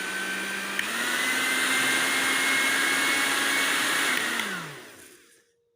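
Britânia blender motor base running with no jar fitted, a steady whine whose pitch steps up about a second in. About four seconds in it is switched off and the whine winds down to a stop.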